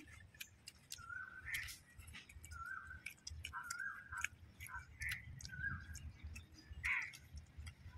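Birds calling outdoors in short repeated calls, about eight of them, with faint clicks in between.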